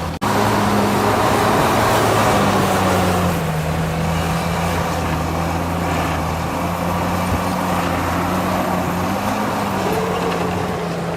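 Heavy diesel engine of construction machinery running steadily under load, its pitch sagging and recovering slightly, with a brief dropout just after the start.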